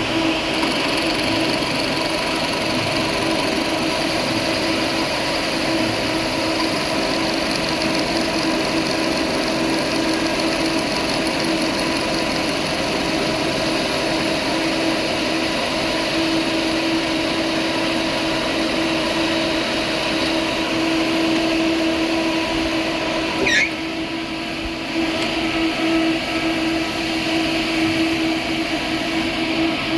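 Workshop machinery running steadily with a constant hum. About two-thirds of the way through there is a brief squeal, and the noise dips for a moment before carrying on.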